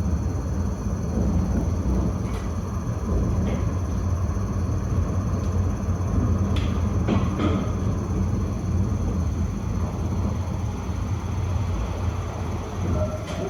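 Tram running along the track: a steady low rumble with a few short, sharp clicks in the middle stretch.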